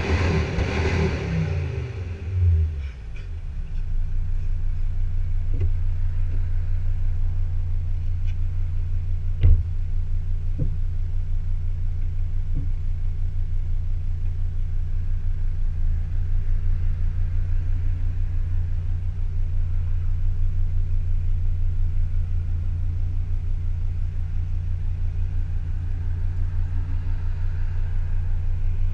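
Volvo XC60 D5 diesel engine running through a custom exhaust: a rev falls away over the first couple of seconds, then the engine settles into a steady low idle rumble. A single sharp click comes about nine and a half seconds in.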